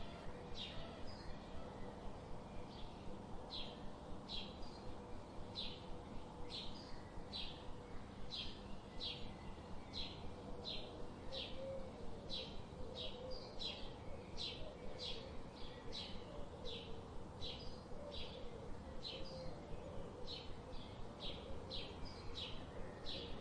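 Ambience of a bird chirping over and over, short high chirps about twice a second, over a faint steady hum.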